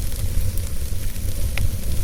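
Wood fire burning in a fireplace: a steady low rumble with scattered small crackles and one sharper pop about one and a half seconds in.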